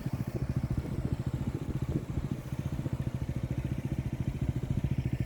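Motorcycle engine running at steady low revs, a fast, even throb with no revving.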